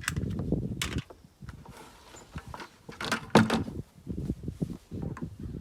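Irregular knocks, clicks and rubbing from handling plastic parts as a Teflon-taped hose fitting is worked into a 5-gallon bucket. There is a cluster of noise in the first second and the loudest knock comes about three and a half seconds in.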